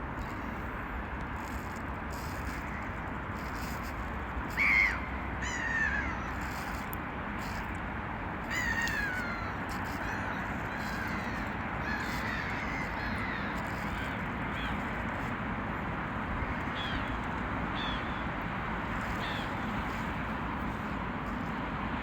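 Gulls calling: a loud call about five seconds in, more calls around six and nine seconds, then fainter scattered calls until near the end, over a steady background noise.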